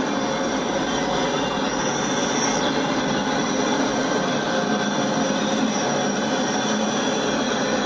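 Double-stack intermodal freight cars rolling steadily past, a continuous noise of steel wheels on rail with high-pitched wheel squeal riding over it.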